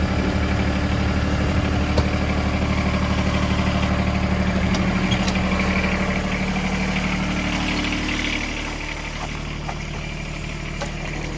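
Engine idling steadily, dropping to a quieter, lower idle about eight seconds in.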